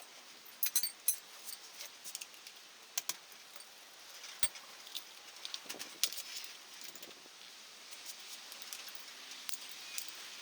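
Scattered light metallic clinks and rattles of hand tools and small metal parts being handled, irregular, with the loudest cluster about a second in.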